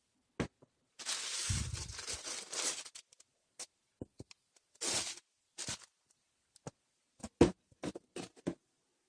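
Packaging handled close to the microphone: a rustle of paper for about two seconds, then scattered taps, clicks and short rustles, the sharpest about seven seconds in.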